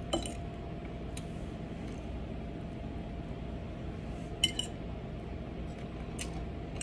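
A few light clinks of cutlery against a plate or dish during a meal, the loudest a double clink about four and a half seconds in, over a faint steady hum.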